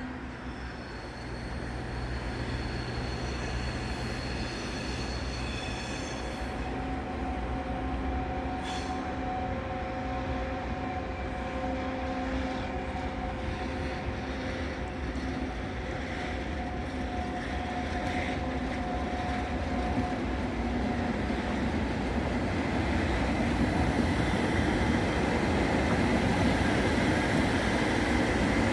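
Electric train moving at a station platform: a continuous rumble with several steady whining tones. It grows louder over the last third.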